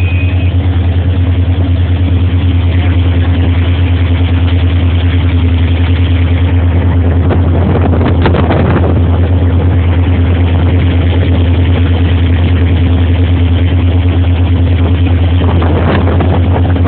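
Motorboat engine running at a steady speed: a low, fast-pulsing drone with a steady hum above it, and a brief louder rush about eight seconds in.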